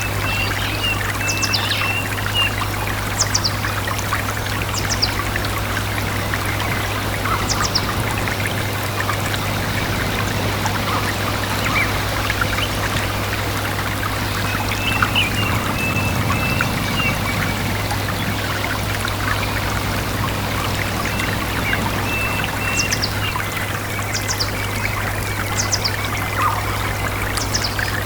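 Stream babbling and trickling steadily, with small birds chirping now and then over it, in clusters near the start, in the middle and near the end. A steady low hum runs underneath.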